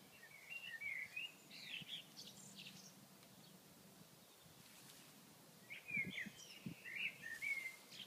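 A songbird singing quick, chirping phrases in two bursts, the first about half a second in and the second near six seconds, with a quiet gap between.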